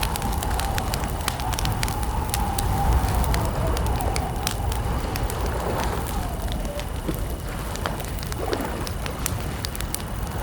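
Campfire crackling: frequent sharp pops of burning wood over a low rumble of the fire. A wavering mid-pitched tone runs underneath and breaks up after about six seconds.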